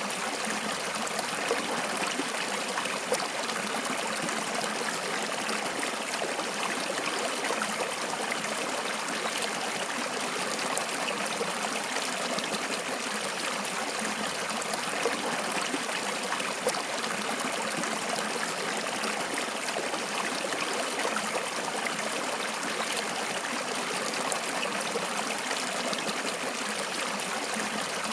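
Flowing water running steadily, an even, unbroken sound of moving water with small irregular peaks.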